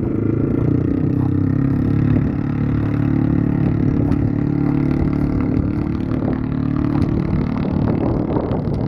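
A 550 quad's engine running with its muffler removed, a very loud open-exhaust note held fairly steady. Near the end the note breaks up into rough crackling pops.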